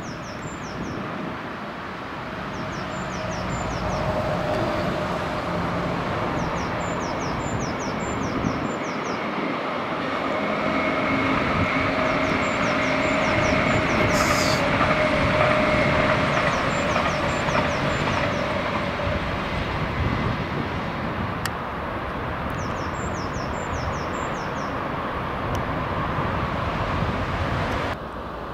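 Electric multiple-unit passenger train running past: a steady rumble of wheels on rail with a motor whine, building to its loudest as the train passes midway. Faint groups of high clicks come back every few seconds. The sound drops away abruptly near the end.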